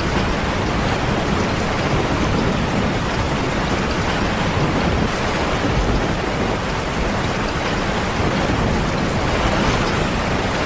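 Heavy rain falling, a steady even hiss with some low rumble underneath.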